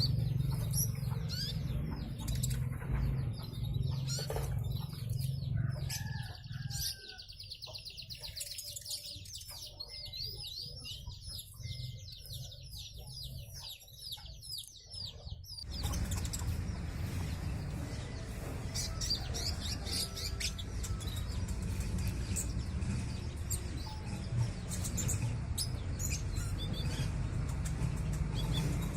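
Kolibri ninja sunbird singing: a long run of rapid, high twittering notes through the middle, with scattered high chirps before and after. A steady low hum sits underneath except during the fast run.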